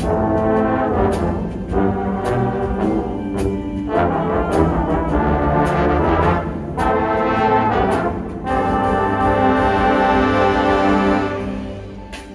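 Indoor winds ensemble playing brass-heavy music, with percussion strikes punctuating it. Near the end the band holds a long chord, which fades away.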